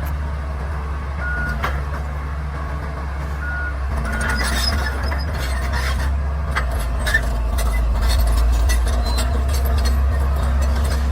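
Bulldozer's diesel engine running steadily under load, with a run of sharp clicks and knocks starting about four seconds in as the sound grows a little louder.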